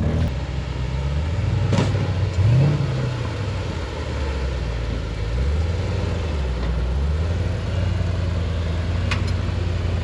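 Rock-crawling rig's engine working under throttle, its pitch rising and falling as it is revved, with a rise about two to three seconds in. A couple of sharp knocks come through, one about two seconds in and one near the end.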